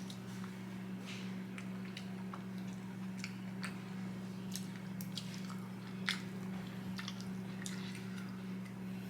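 Close-miked chewing and wet mouth clicks from someone eating, in scattered short bursts with one sharper click about six seconds in, over a steady low electrical hum.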